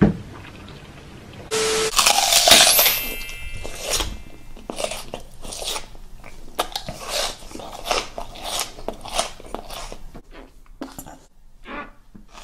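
Close-miked crunching and chewing of raw red onion, with wet, irregular crunches following one another at an uneven pace. A brief loud noise comes about two seconds in.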